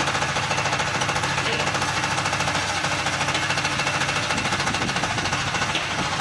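Mobile diesel-powered concrete hollow block making machine's vibrator switching on and shaking the mould with a steady, rapid rattling of about a dozen pulses a second, compacting the concrete into blocks.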